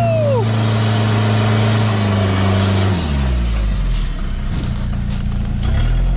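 Turbo diesel engine of a rock-crawling 4WD truck held at raised revs, dropping back to idle about three seconds in and revving up again near the end. A few light knocks come in between.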